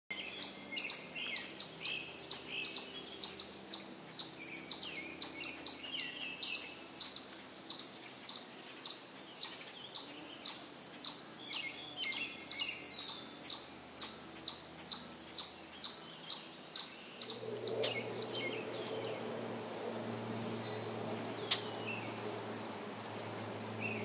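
Birds calling: one bird gives sharp high chips in a steady series of about three a second, with other birds calling underneath. About seventeen seconds in, the chips stop and a steady low hum takes over.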